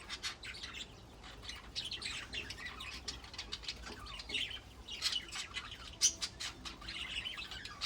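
Budgerigars chattering and warbling without pause: a dense stream of chirps, squawks and clicks, with a couple of sharper, louder calls about six seconds in and near the end.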